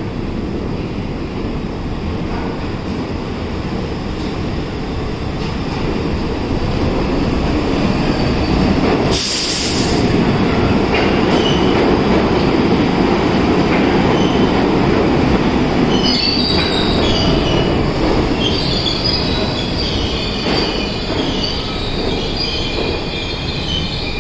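R62 subway train running through the station with a steady rumble that grows louder toward the middle, a short hiss about nine seconds in, and high-pitched wheel squeal on the curved track from about sixteen seconds on.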